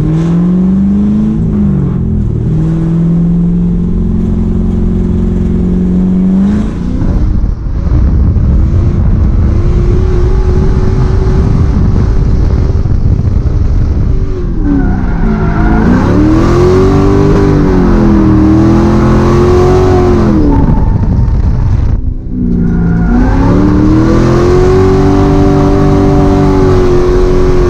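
LS V8 engine of an S13 Silvia drift car running hard, its pitch rising and falling over and over as the throttle is worked, with two brief lifts off the throttle, about seven and twenty-two seconds in.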